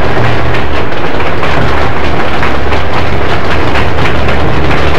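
Passenger cars of a passing train rolling by close at hand: a steady low rumble with wheels clicking and clattering over the rail joints.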